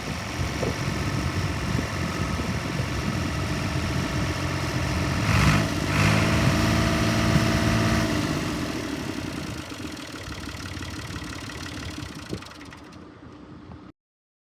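Universal 530 tractor's diesel engine running, louder for a couple of seconds about halfway through, then growing steadily fainter until the sound cuts off just before the end.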